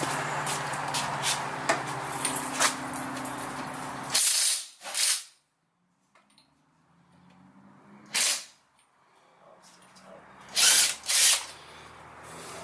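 A machine hums with several steady low tones, then stops abruptly. After that come about five short, loud bursts of air hissing from a pneumatic tool.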